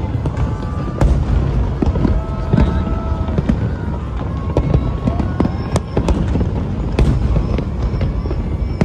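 Fireworks going off: a dense, irregular run of bangs and crackles over a low rumble.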